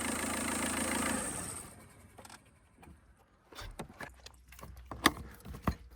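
Car engine idling, then switched off about a second and a half in and winding down. Afterwards a few faint clicks and knocks.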